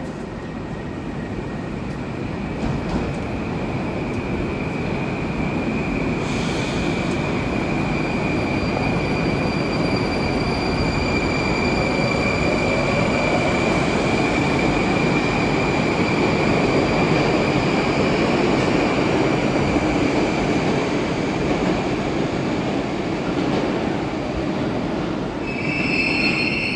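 Moskva-type (81-765) metro train running along the platform, a steady rumble with a long, high wheel squeal through the middle and a brief louder squeal near the end.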